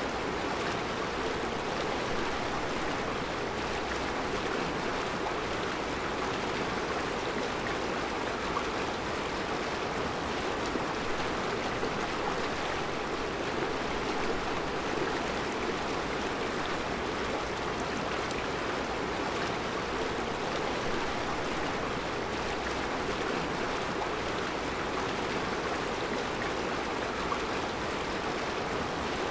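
Mountain river flowing over round rocks in its bed: a steady, even rush of water.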